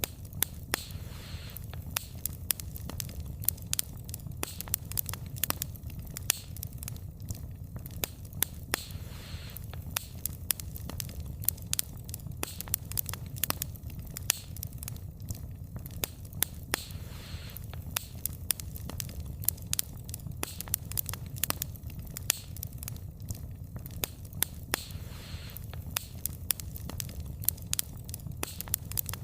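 Wood fire burning steadily, with frequent sharp irregular crackles and pops of burning logs over a low rumble of flame.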